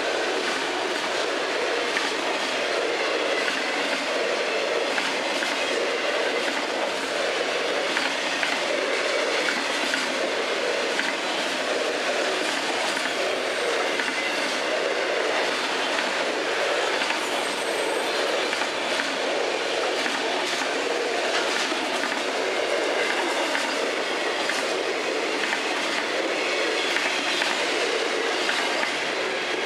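Freight cars of a long train rolling past at steady speed, autoracks then double-stack container cars: a continuous rolling noise of steel wheels on rail, with a stream of clicks as the wheels cross the rail joints.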